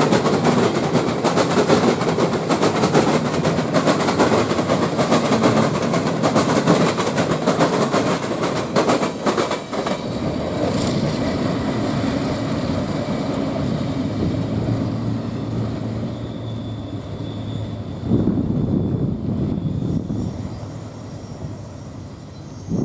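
Freight cars of a Norfolk Southern welded rail train rolling past: steady wheel-on-rail rumble, clattering with rapid clicks through the first half. It grows quieter near the end as the cars move away around a curve.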